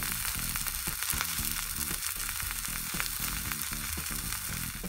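Ramen-noodle patty and onion slices frying in oil in a skillet: a steady, crackling sizzle.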